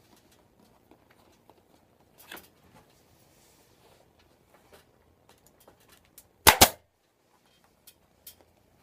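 Staple gun firing twice in quick succession, two sharp loud snaps, as staples are driven through the vinyl seat cover into the seat base, amid light clicks of handling.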